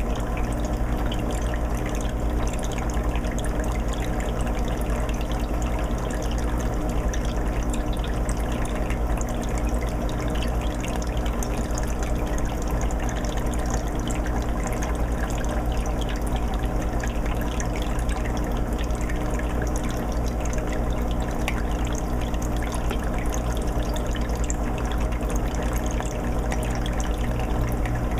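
A 20-gallon aquarium's water filter running: a steady trickle and bubbling of water falling back into the tank, over a low, steady hum.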